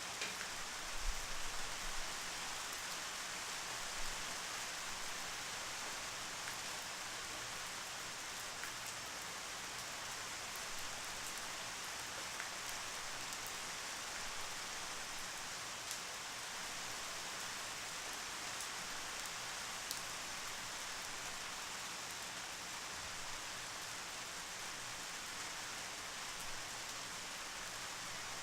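Steady rain falling, an even hiss with scattered individual drop ticks, and a few soft low thumps in the first few seconds.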